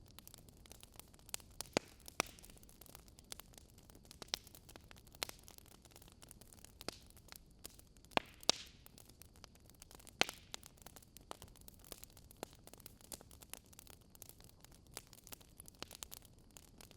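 Charcoal barbecue fire burning in a fireplace, crackling with irregular sharp pops over a faint steady hiss. A few louder pops come about two, eight and ten seconds in.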